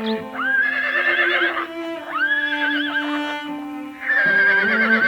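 A horse whinnying three times, each call rising then quavering down, over music with long held notes.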